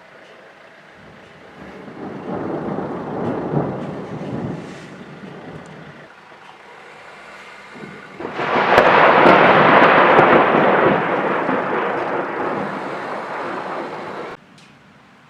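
Thunder: a rolling rumble a couple of seconds in, then a louder, sharper thunderclap about eight seconds in that rumbles on and slowly fades before cutting off suddenly near the end.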